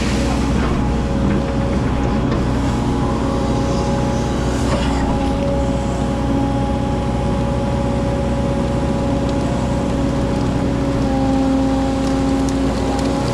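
Excavator's diesel engine running steadily, with higher tones that come and go over it.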